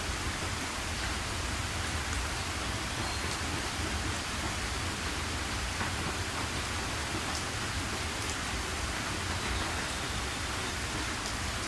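Heavy rain falling steadily: a dense, even hiss with a low rumble underneath and a few faint drop ticks.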